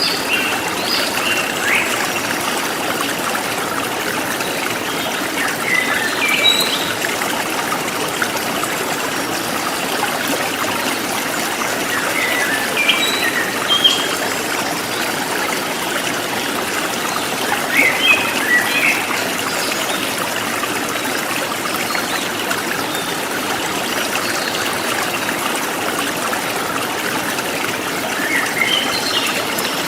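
A stream trickling steadily, with a bird chirping in short phrases every few seconds, about five times.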